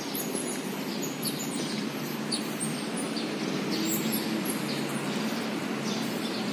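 Small birds chirping again and again over a steady outdoor background rush.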